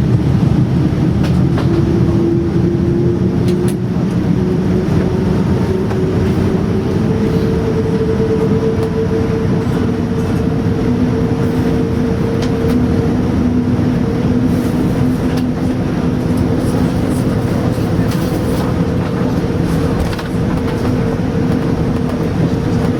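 Cabin noise of a Boeing 787-9 on its takeoff roll: a loud, steady rumble with the Rolls-Royce Trent 1000 engines' whine rising in pitch over the first several seconds and then holding, and a second lower tone joining about ten seconds in. There are a few sharp knocks in the first four seconds.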